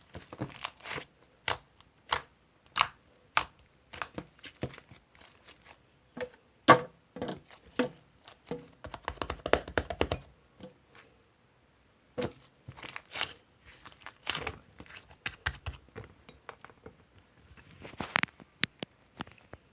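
Crinkling and tearing with many scattered taps and clicks, busiest around ten seconds in.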